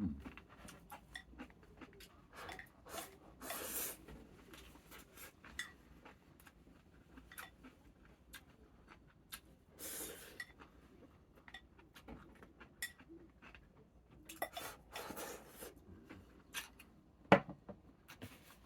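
Tableware clinking and scraping during a meal: many light clicks of utensils against a bowl, a few longer scrapes, and one sharp clack near the end, the loudest sound.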